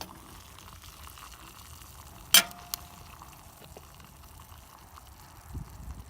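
Metal camp cookware and stove parts knocking together: one sharp metallic clink with a short ring a little over two seconds in, then a fainter click. A light crackling hiss runs underneath.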